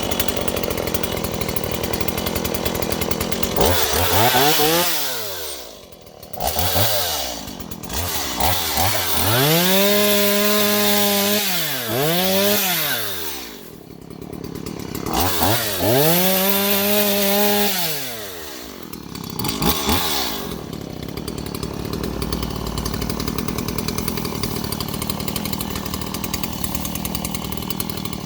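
Stihl MS170 two-stroke chainsaw cutting bamboo. Between about 4 and 20 seconds in it is revved up, held at high revs and let back down about four or five times, and it runs steadily before and after.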